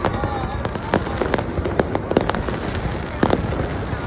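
Fireworks display going off: a rapid, irregular series of sharp bangs, roughly two or three a second, over a steady rumble of further explosions.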